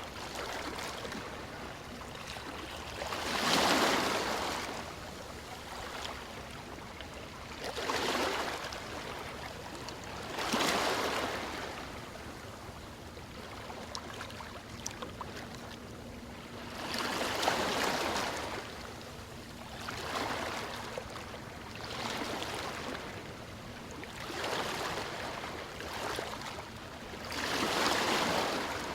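Ocean waves breaking and washing ashore, swelling and fading in surges every few seconds over a steady hiss of surf; the loudest surge comes about three and a half seconds in.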